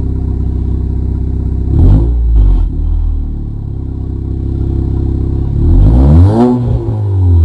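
Honda Accord 1.5-litre turbocharged four-cylinder breathing through a Thermal R&D exhaust and catless downpipe, idling steadily. The engine is blipped twice: a short rev about two seconds in, then a bigger rev near the end that climbs and falls back toward idle.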